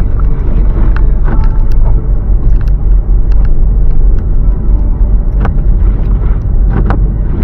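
Car driving: a steady low rumble of engine and tyres, with a few scattered light clicks and knocks.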